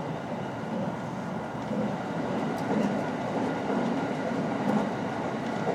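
Running noise of a JR West 225 series 5000-subseries electric train heard from inside its front car: a steady rumble of wheels on rail with a few faint clicks, while an oncoming train passes on the adjacent track.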